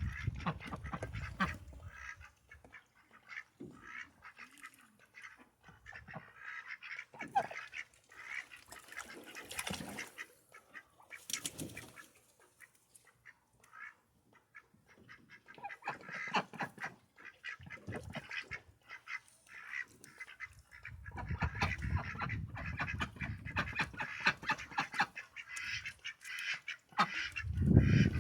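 Ducks quacking on and off in short scattered calls, with quiet gaps between. A low rumbling noise joins in during the last several seconds.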